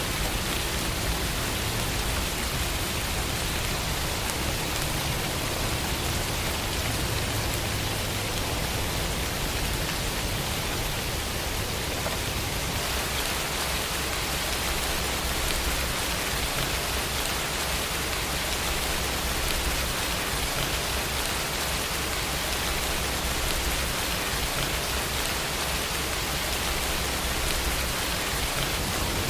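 Steady rain falling, an even, unbroken hiss with no distinct drops standing out.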